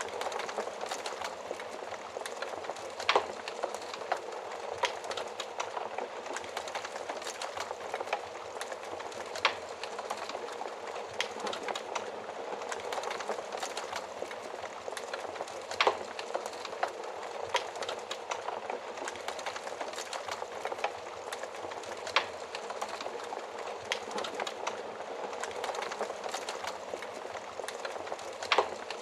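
Wood fire crackling in an oven: a steady hiss of flames with frequent small crackles and a few louder sharp pops.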